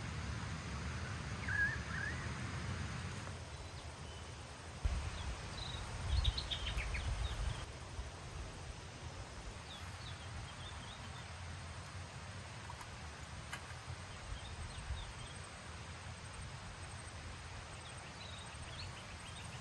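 Outdoor bush ambience: a steady low rumble with a few brief, high bird calls scattered through, the clearest about six seconds in.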